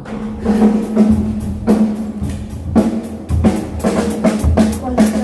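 Acoustic drum kit being played: a steady groove of bass drum, snare and cymbal hits, several strikes a second, with the drums ringing on between hits.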